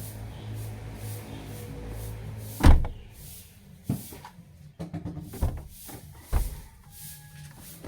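A loud thump about two and a half seconds in, then a few lighter knocks, from things being handled inside a car during cleaning, over background music.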